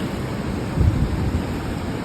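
Wind buffeting the microphone in low rumbling gusts, strongest about a second in.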